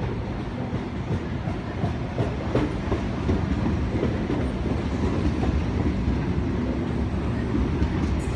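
Double-deck electric passenger train pulling into a station platform: a steady rolling rumble with wheels clicking over rail joints.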